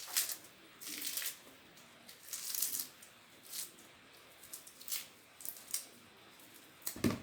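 Lettuce leaves torn by hand: a series of short, crisp tearing crunches, about one a second, with a louder knock near the end.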